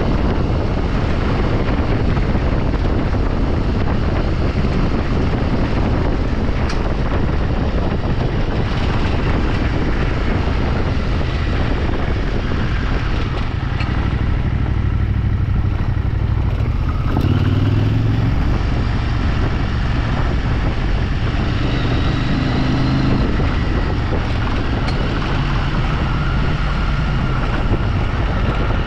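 A vehicle engine running while driving off road, with wind noise on the microphone. The engine note shifts up and down near the middle and again later.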